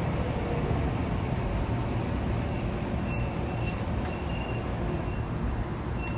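Saitama Railway 2000 series train running through a subway tunnel, heard from inside the car: a steady rumble of wheels on rail. A faint high thin tone comes and goes from about halfway.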